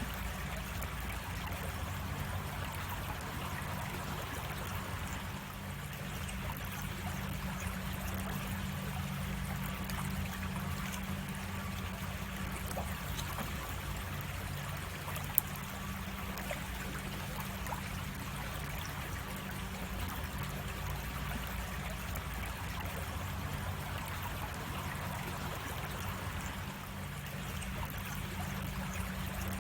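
Creek water running steadily over small cascades, a continuous trickling rush. A single sharp click about halfway through.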